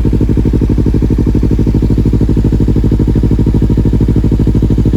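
Kawasaki Ninja 300's parallel-twin engine idling steadily through an aftermarket exhaust with the dB killer removed, giving a loud, deep, evenly pulsing exhaust note.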